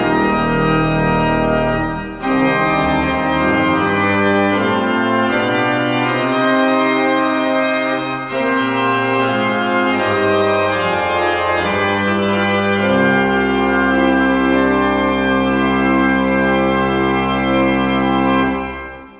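Organ music: sustained chords with two short breaks, a deep bass note entering about two-thirds of the way in, and the music dying away at the very end.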